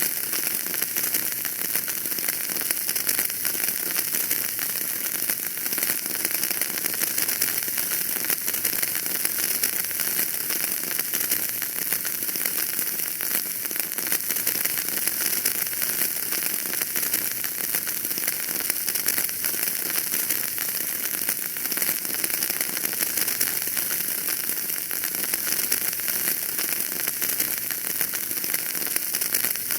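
Wood fire crackling: a steady, dense stream of small pops and crackles.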